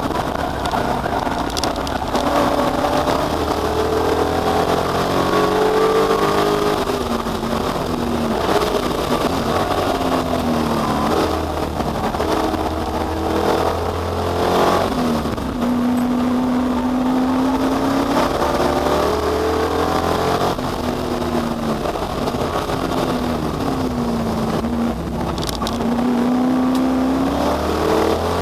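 Ford Capri V8 race car's engine driven hard, its pitch climbing through the revs, falling back at gear changes and on lifting off, again and again, with one longer stretch held at steady revs about halfway through.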